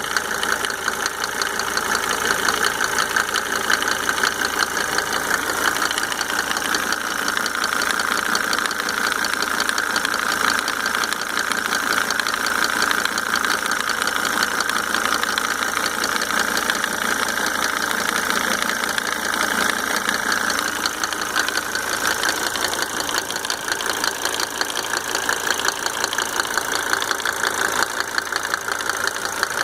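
Mercedes-Benz OM602 2.5-litre five-cylinder diesel engine running steadily, apparently at idle, with diesel clatter and a tick. The owner cannot trace the tick even after fitting five rebuilt injectors with Monark nozzles.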